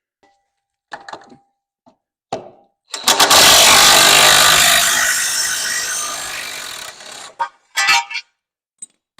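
Impact wrench hammering on a rusted bumper-bracket nut for about four seconds, starting hard and slowly fading, with a few metallic clicks of the tool and socket before and after.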